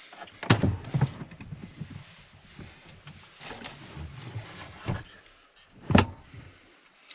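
Objects being handled at a camp stove: rustling and a few sharp knocks, the loudest about six seconds in.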